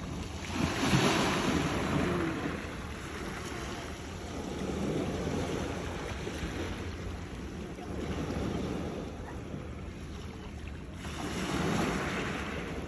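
Sea waves crashing against rocks: a steady wash of surf that swells and falls back every three to four seconds, loudest about a second in.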